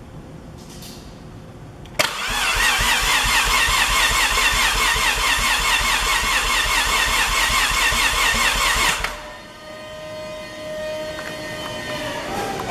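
Mazda 13B twin-turbo rotary engine being cranked over by its starter motor. It starts suddenly about two seconds in, with a whine that rises and falls in a quick, even rhythm, and stops abruptly about seven seconds later.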